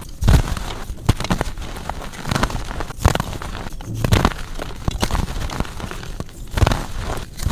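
Soft, powdery gym chalk being crushed and crumbling: a continuous run of irregular dry crunches and crackles, with louder crunches shortly after the start and near the end.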